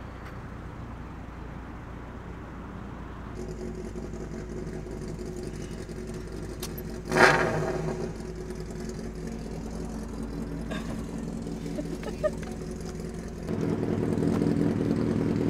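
Old Opel Kadett's engine running steadily at idle, freshly jump-started. A single loud sudden sound cuts in about seven seconds in, and the engine sound becomes louder near the end.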